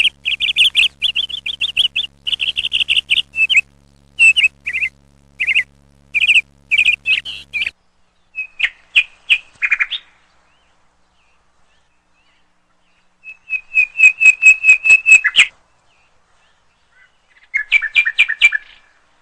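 Bird chirping in quick runs of short, high, repeated notes, coming in several bursts with pauses between them.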